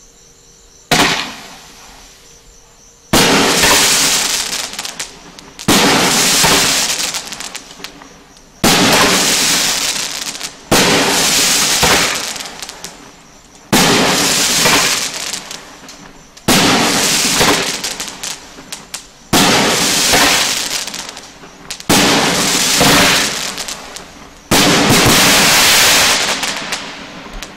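Consumer 12-shot, half-inch-tube fireworks cake firing: about ten shots two to three seconds apart, each a sharp bang followed by several seconds of crackling that fades before the next shot.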